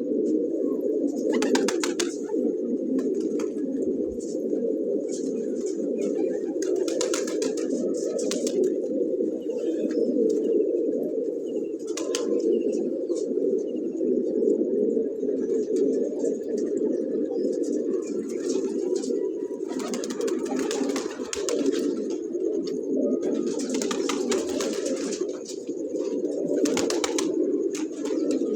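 Domestic pigeons cooing together in an unbroken, overlapping chorus. Short bursts of rustling noise come and go on top of it.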